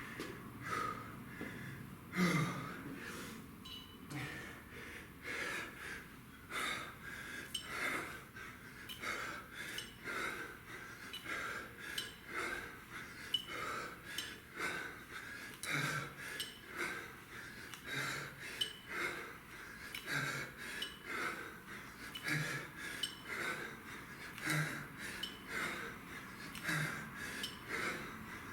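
A man breathing hard during a kettlebell set, with quick, rhythmic exhales more than once a second.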